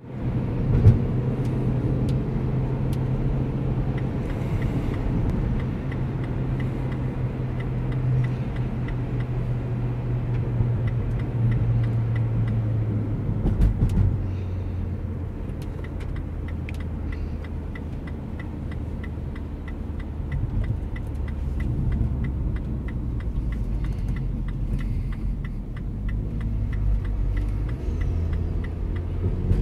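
Mini Countryman S's turbocharged four-cylinder engine running at a steady pitch with road rumble; about 13 seconds in the engine note drops lower and stays there. A regular light ticking runs through the second half.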